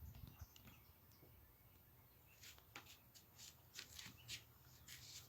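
Near silence, with a few faint, short rustling ticks in the second half.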